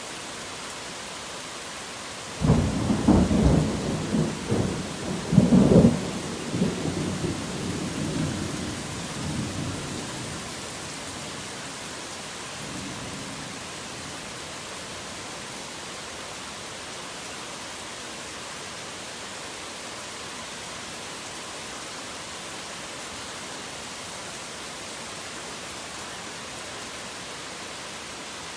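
Steady heavy rain with a thunderclap about two seconds in: sharp cracks for a few seconds, then a rumble that dies away, and a faint further rumble a few seconds later.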